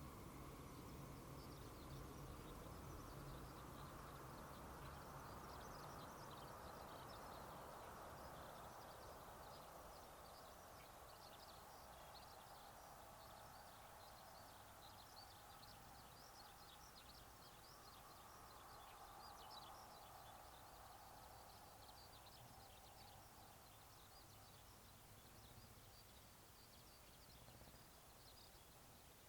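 Faint outdoor ambience: a steady distant hum with many small, quick bird chirps over it.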